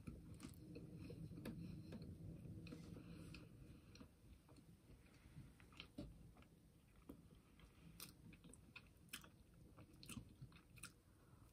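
Faint biting and chewing of a glazed blackberry fruit pie, with small sharp mouth clicks and smacks, more of them in the second half.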